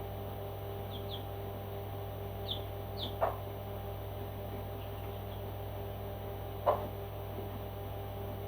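Pet parrot chirping: short high chirps, mostly in pairs, then two louder short calls that fall in pitch, about three seconds apart, over a steady hum.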